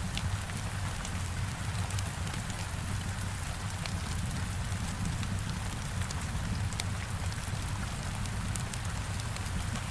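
Heavy rain falling against a window, a steady hiss over a low rumble, with the scattered sharp crackles of a wood fire burning in a fireplace.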